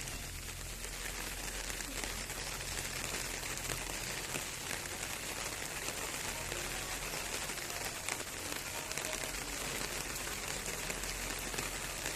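Steady rain falling and pattering on surfaces, an even hiss of many fine drops with a low hum underneath.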